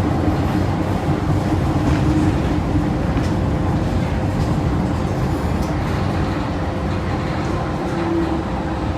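MTR M-Train electric metro train running along the track, heard from inside the car: a steady rumble of wheels and running gear with a steady traction-motor hum underneath.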